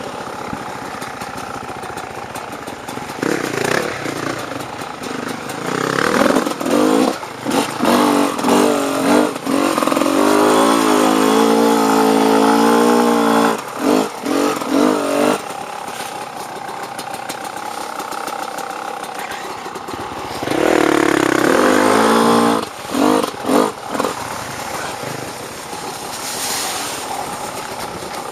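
Off-road dirt bike engine running. It goes between a steady lower note and louder stretches of revving and throttle blips, twice rising and falling in pitch for a few seconds.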